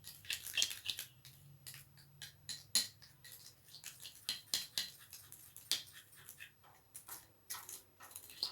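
A spoon stirring and scraping a thick multani mitti and sandalwood paste in a small bowl, with irregular clicks and scrapes of the spoon against the bowl, several a second.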